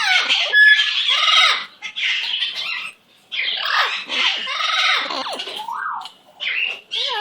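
Pet bird vocalizing in a run of raspy, chattering calls, in four or five bouts with short pauses between them.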